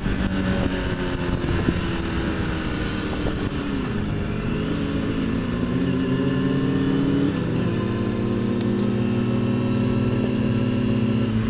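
Inline-four sport motorcycle engine running under way at a fairly steady speed, its pitch dipping and easing back a few times, over a constant rush of wind noise.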